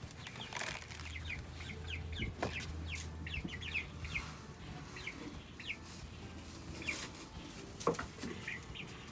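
Six-week-old Sapphire Gem chickens peeping, a running series of short falling chirps, with a couple of sharp knocks.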